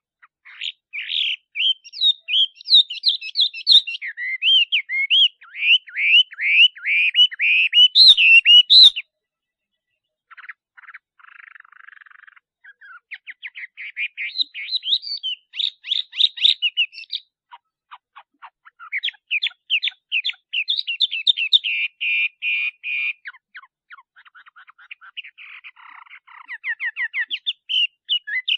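Male Chinese hwamei (melodious laughingthrush) singing: loud runs of rapid repeated whistled notes and trills. About nine seconds in there is a brief silence, then quieter warbling, and the loud phrases return.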